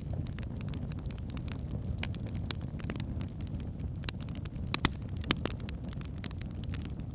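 Wood fire burning in a fireplace: a steady low rumble of the flames with irregular sharp crackles and pops from the logs, the loudest a couple of pops a little under five seconds in and another about half a second later.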